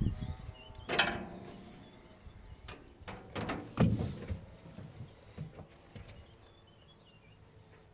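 A few metal clanks from parts or tools being handled. The loudest, about a second in, rings briefly; another comes a little before the four-second mark. Faint bird chirps sound behind them.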